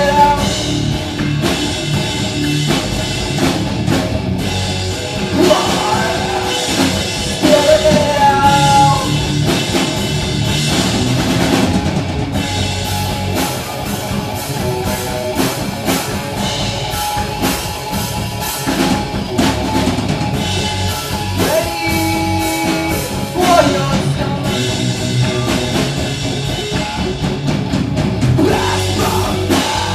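Live rock band playing a song: drum kit and guitars, with a singing voice coming in at times.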